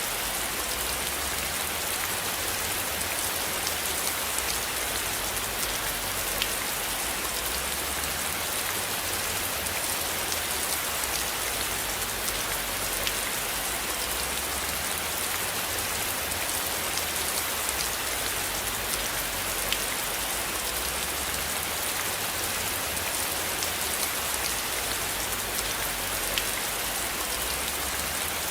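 Steady rain falling on a surface: an even hiss with many fine drop ticks and a few louder single drops.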